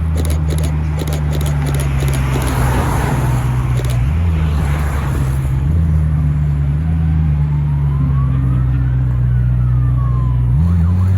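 Supercar engine running at low revs with a steady deep note, the revs stepping up near the end.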